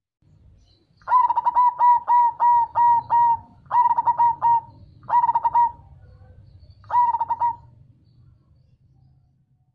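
Zebra dove (perkutut) cooing: four phrases of quick, evenly repeated coo notes, the first and longest about a second in, the last ending near eight seconds.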